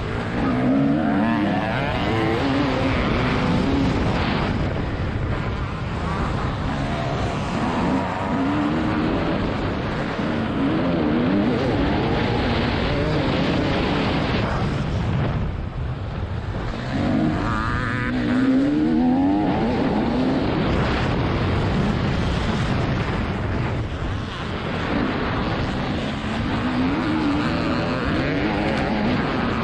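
TM 300 ES two-stroke motocross engine revving hard, its pitch rising and falling again and again as the throttle is opened and shut through the gears, with wind rushing over the microphone.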